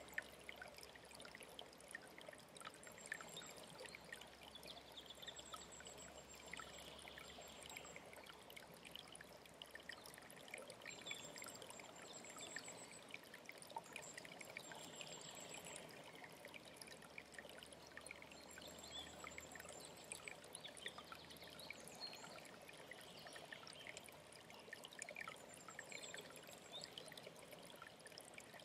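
Faint mountain stream trickling and splashing steadily, with small birds singing over it: a short, very high, thin trill repeats every few seconds, among other brief chirps.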